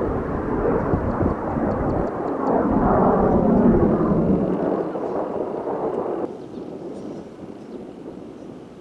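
Kawasaki T-4 jet aircraft of the Blue Impulse team flying past, the jet noise swelling to its loudest about three to four seconds in and then fading. It drops off suddenly about six seconds in, leaving a fainter rush.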